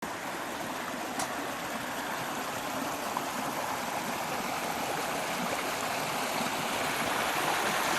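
Steady rush of flowing water from a mountain stream, growing a little louder toward the end.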